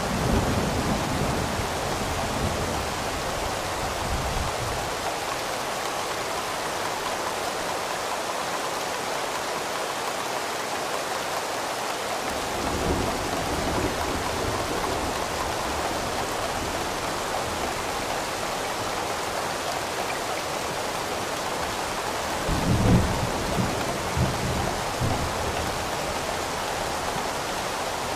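Steady rain falling, with low rolling thunder rumbling in several times: at the start, about halfway, and most loudly about three-quarters of the way through.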